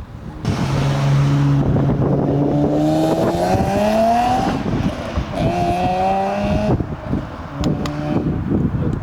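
A car engine accelerating away hard. Its pitch climbs, drops sharply at a gear change about 4.5 s in, climbs again and drops at a second change near 7 s.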